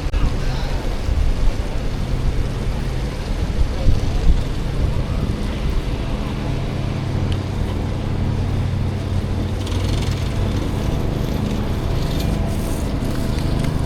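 City street traffic noise: a steady rumble with a low engine hum from passing and idling vehicles.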